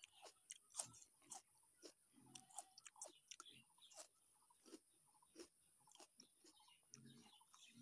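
Faint chewing with irregular crisp crunches and wet mouth clicks: a mouthful of raw red onion and fried chicken being chewed.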